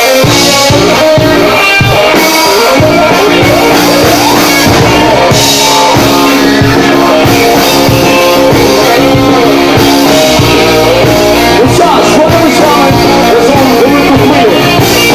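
A rock band playing live, loud, with guitars, a drum kit and a sung vocal line.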